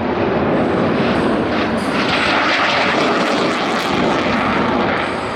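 Jet noise from a Blue Angels F/A-18 Super Hornet's twin turbofan engines as the jet passes over. It is a steady, loud rushing sound that grows sharper and brighter about two seconds in, then eases toward the end.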